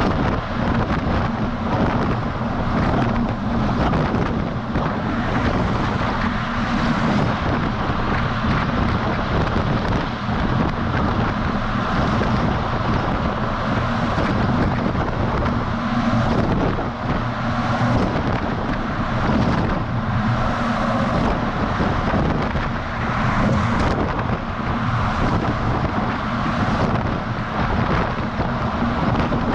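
Semi truck's diesel engine running steadily while driving, under a steady rush of wind and road noise across a camera mounted on the outside of the truck.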